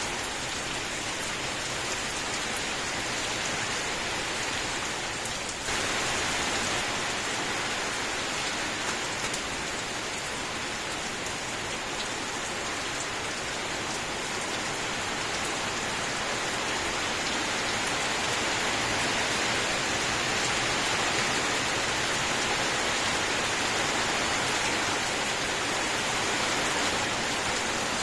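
Steady rain falling, an even dense hiss of drops. About six seconds in it abruptly steps up louder and brighter, then holds.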